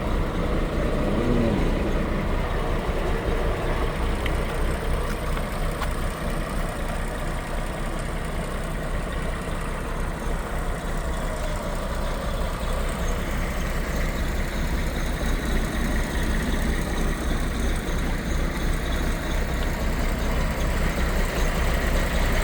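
Scania R420's DT12 six-cylinder diesel engine idling steadily.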